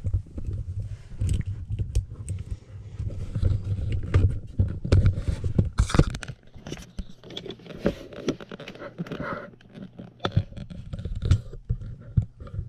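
Irregular scraping, clicking and knocking of tools and small parts being handled at a furnace, over a low steady hum.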